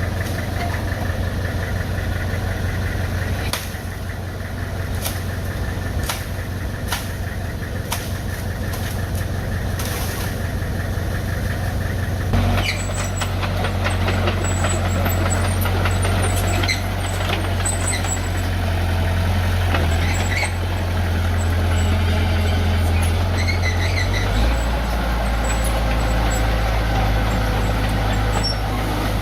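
Diesel engine of earth-moving machinery running, with scattered sharp clanks in the first third. About twelve seconds in, the engine note changes and grows louder, and it shifts again near the end.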